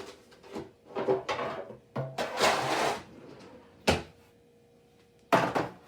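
A baking pan handled on a metal cookie sheet: scraping and rattling in several short bouts, with a sharp knock about four seconds in.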